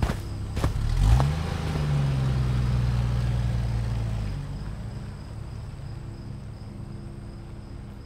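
Car engine starting with a thump, revving up briefly, then running steadily for a few seconds before fading away. Faint steady insect chirping runs underneath.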